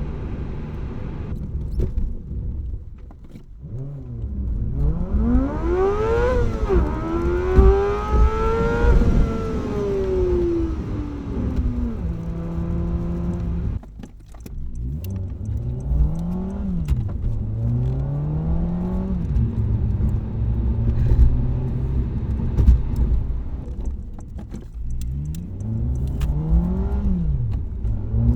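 Car engine and exhaust under acceleration, the revs climbing and then falling off sharply at each upshift, several times over. The first half is played at double speed, so the pitch is higher and the sweeps faster; from about halfway it runs at normal speed and sounds deeper.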